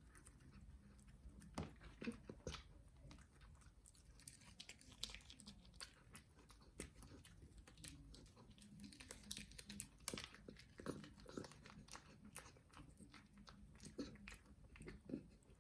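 A dachshund chewing food: a string of short, crisp bites and clicks at an uneven pace.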